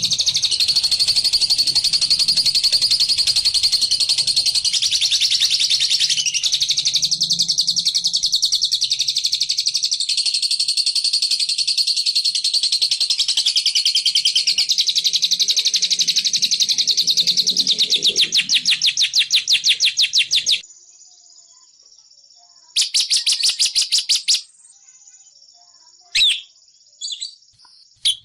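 Lovebird ngekek: a long, fast, unbroken chatter of high repeated notes. It cuts off abruptly about twenty seconds in, followed by a short burst, two brief calls, and the chatter starting again near the end.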